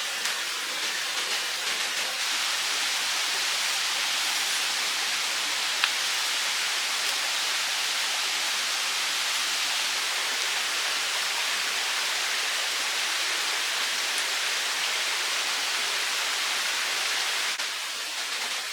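Steady rush of running water, with one sharp click about six seconds in; the rush drops slightly near the end.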